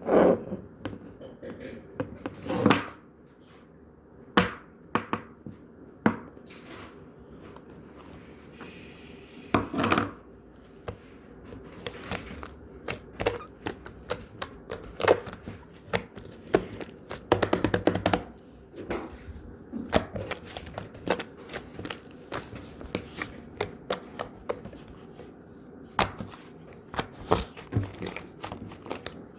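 Irregular taps, clicks and knocks of small objects being handled on a hard surface, with a quick run of clatter near the end of the second third.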